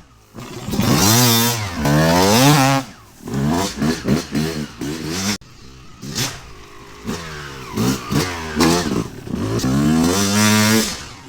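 Yamaha YZ250 two-stroke single-cylinder engine being revved in repeated throttle blips, the pitch climbing and falling back each time. It drops to a quieter idle in between, once about halfway through and again shortly after.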